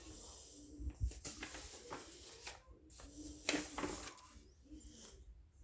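Pages of a paper coloring book being handled and turned: soft, irregular rustles of paper with a light knock about a second in.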